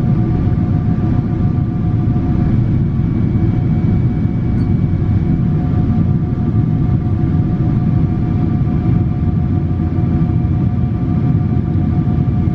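Steady cabin noise inside a Boeing 777-300 in flight: a constant low rumble of engines and rushing air, with a few faint steady engine tones above it.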